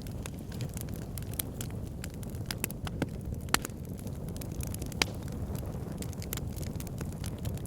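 Wood fire burning in a fire pit, crackling with irregular sharp pops and snaps over a steady low rumble of the flames. Two louder pops come about three and a half and five seconds in.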